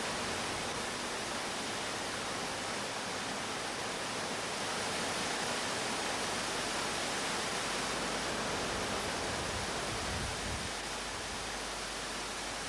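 Steady roar of rushing water from the Iguazú river's falls and rapids, an even hiss with no let-up.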